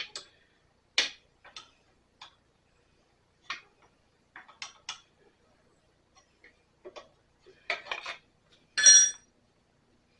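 Metal wrenches being handled and clinking against each other and against metal: scattered sharp clinks and taps, the loudest a ringing metallic clink near the end.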